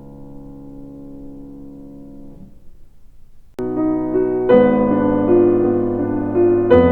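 Background piano music: a held chord fades away, and after a short pause new piano chords come in about halfway through and grow louder.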